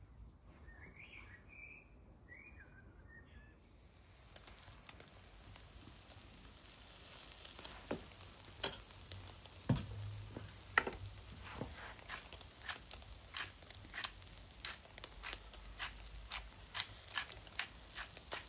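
Meat sizzling on a barbecue over an open fire: a steady hiss that sets in about four seconds in, with irregular sharp pops and crackles over it from about seven seconds on.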